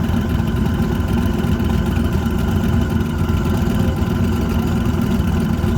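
Twin-turbocharged V8 of a 1962 Chevy Nova wagon drag car idling with a steady, choppy low rumble while staged at the starting line, waiting to launch.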